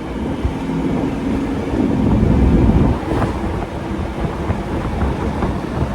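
Truck with a swapped-in 2016 Mustang Coyote 5.0 V8 and ZF5 five-speed driving, heard from inside the cab: steady engine and road rumble that builds for about two seconds and then drops suddenly about three seconds in.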